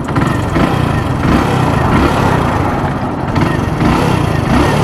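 Hero Splendor Plus BS6 single-cylinder engine running steadily with a chattering rattle, which the rider puts down to a noisy timing chain due for replacement.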